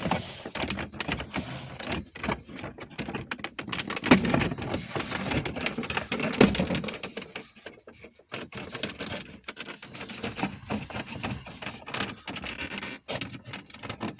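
Plastic dashboard trim panel of a Volkswagen Passat B7 being worked loose by hand from its clips, making rapid, irregular plastic clicks and rattles, with a couple of louder knocks midway.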